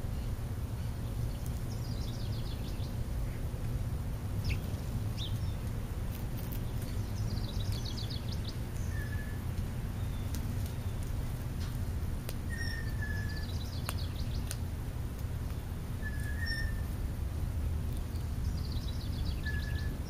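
Wild birds calling: a quick descending trill repeated about every five or six seconds, and a few short whistles, over a steady low background rumble.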